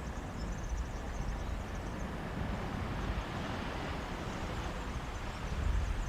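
Mediterranean sea waves washing onto a beach, a steady wash of surf that swells around the middle, with sea breeze rumbling on the microphone.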